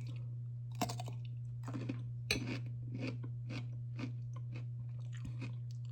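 Chewing a dill pickle: repeated crunchy bites at an uneven pace, over a steady low hum.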